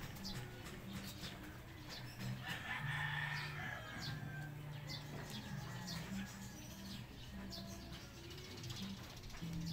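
Birds calling, with one longer call about three seconds in, under a low steady background hum.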